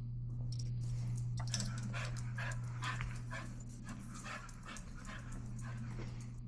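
Detection dog breathing hard in quick, repeated puffs as it searches, over a steady low hum.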